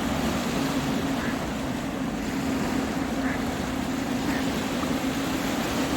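Ocean surf washing in, with wind on the microphone and a steady low drone underneath.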